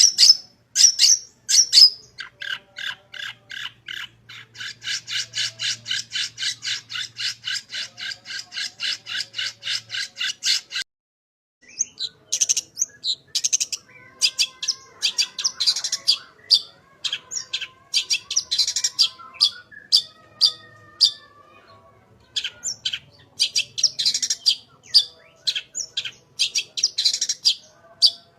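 Long-tailed shrike (cendet) singing: a fast, even string of short notes, about five a second, runs for some nine seconds and breaks off briefly. It then resumes as an irregular song of short notes mixed with softer whistled phrases.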